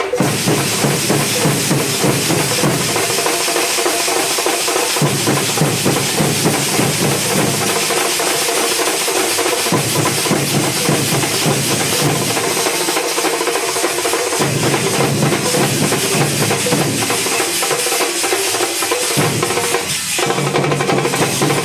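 Thambolam band drumming: a loud, dense, continuous drum rhythm with a steady high hiss over the beats.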